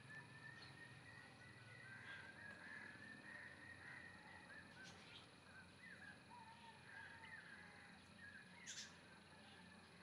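Faint bird calls: a string of short chirps and gliding notes. A sharp click sounds about five seconds in, and a louder one just before the end.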